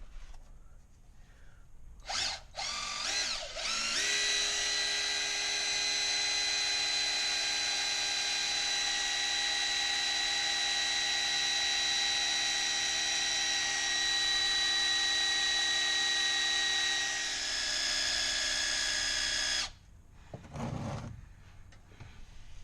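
Small electric power tool motor, like a drill, run in a few short bursts, then held for about fifteen seconds as a steady whine that shifts slightly near the end before cutting off suddenly.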